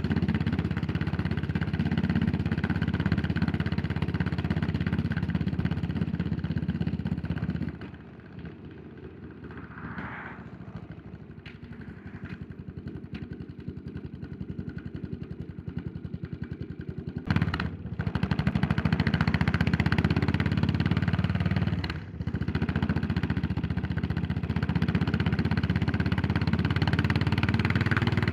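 Yamaha SR400's air-cooled 399 cc single-cylinder four-stroke engine running under way, then dropping to a quiet, even beat with the throttle closed for about nine seconds. The throttle opens sharply and it pulls hard again, with a brief dip in the sound at a gear change, then runs steadily.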